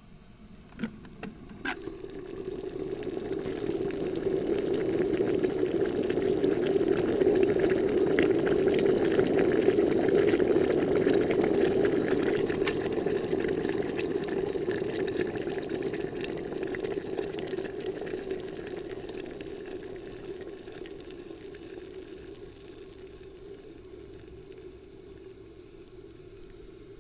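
Broth bubbling at the boil in a pot, with a few light clicks about a second in. The bubbling swells up and then slowly fades.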